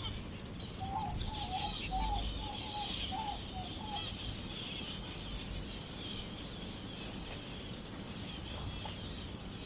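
A flock of small aviary finches chirping constantly, many high calls overlapping. A lower, repeated call joins about a second in and stops a few seconds later.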